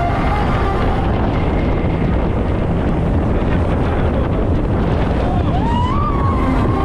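A roughly 900-horsepower speedboat running at speed: a steady, loud roar of engine and rushing water, buried under heavy wind buffeting on the microphone. Near the end a single tone rises and holds over the roar.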